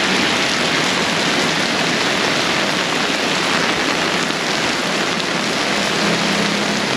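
Heavy tropical downpour, rain falling hard and steady on an umbrella overhead and on the wet street. Near the end a low, steady engine hum joins it.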